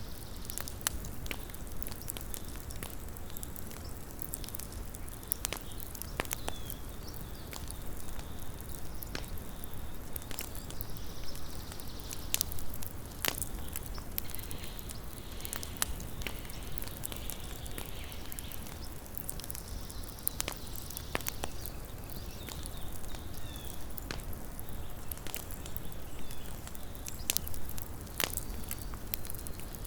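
Small wood campfire crackling, with irregular sharp pops and snaps over a steady low hiss.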